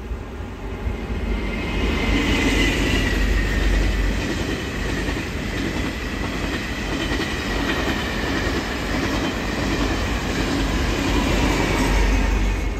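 Taiwan Railways Tze-Chiang push-pull express train passing over a viaduct: a steady rumble of wheels on rail that swells about a second in. A high whine runs over it and falls slightly in pitch as the train goes by.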